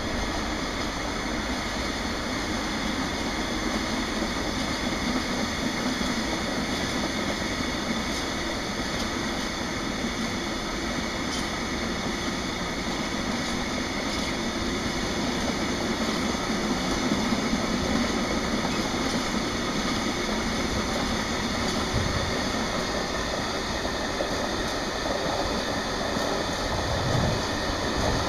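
Freight train of empty container flat wagons rolling past: a steady rumble and clatter of steel wheels on the rails.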